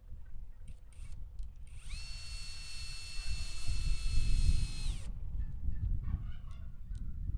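A small electric motor whines up about two seconds in, runs at a steady pitch for about three seconds, then winds down, over a constant low rumble.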